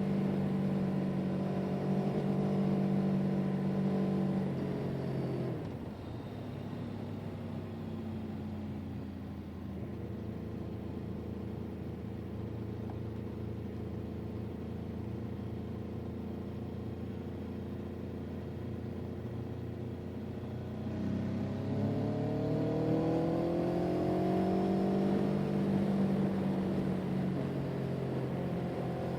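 A vehicle engine running under way. Its pitch drops about five seconds in and holds steady at a lower note, then climbs again about three-quarters of the way through as it accelerates.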